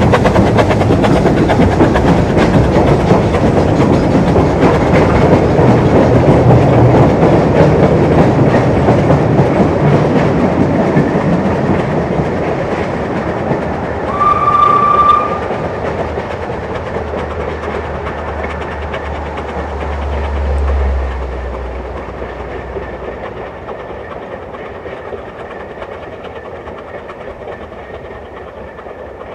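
Narrow-gauge steam train running past and fading into the distance, its wheels clicking over the rail joints. About halfway through it gives one short whistle blast, about a second long.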